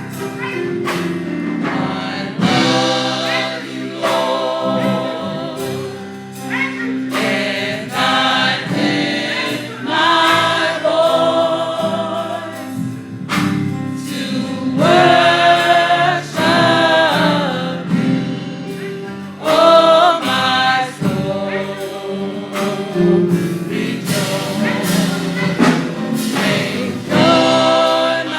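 Gospel choir singing with instrumental accompaniment, with long held notes and a steady beat.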